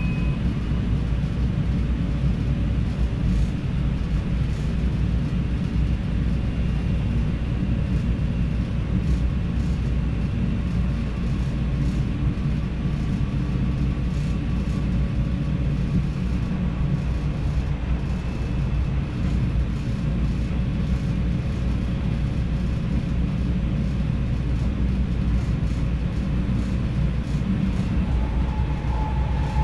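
NS DDZ double-deck electric train running along the line, heard from the driver's cab: a steady low rumble of wheels on track with faint whining tones over it. A slightly stronger steady whine comes in near the end.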